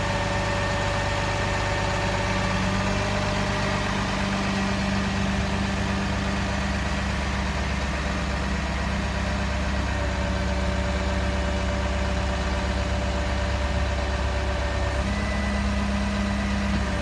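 Freightliner M2 flatbed tow truck's engine running steadily, with small shifts in its pitch about four seconds in and again near the end.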